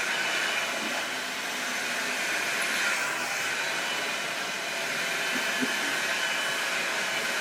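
Hand-held hair dryer blowing steadily.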